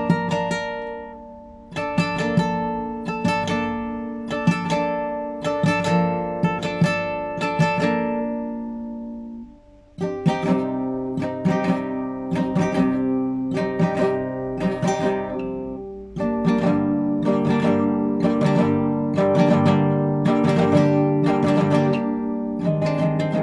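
Classical guitar played solo: improvised phrases of plucked single notes and chords, each ringing out. The phrases pause briefly about two seconds in and again near ten seconds as notes die away. The playing grows denser and louder in the last third.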